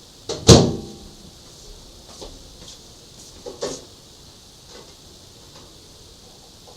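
Microwave oven door shut with a sharp clack about half a second in, then a few lighter clicks.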